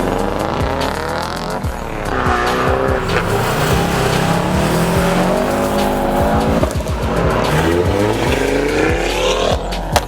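Car engine revving up and down with tyres squealing, the pitch rising and falling in long sweeps.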